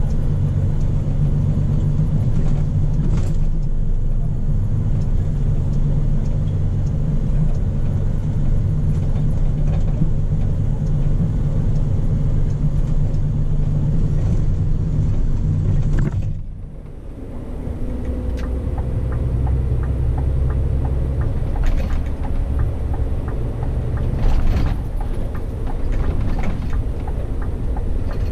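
Scania P400 truck's diesel engine running with a steady low drone; about sixteen seconds in the sound drops away briefly, then picks up again at a lower pitch.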